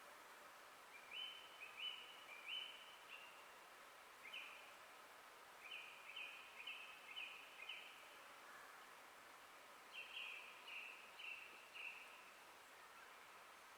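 A songbird in a forest repeats a short, high, clear note in phrases of three to five notes, with pauses between phrases, over a faint steady hiss of forest background.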